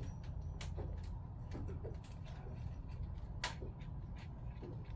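Small sharp clicks and taps of pump parts and tools being handled during reassembly, with one louder click about three and a half seconds in, over a steady low hum.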